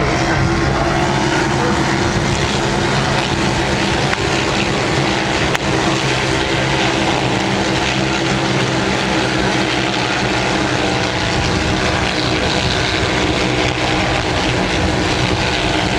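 Racing motorcycle engines running at high revs: a loud, continuous engine note with no let-up. A single sharp click comes about five and a half seconds in.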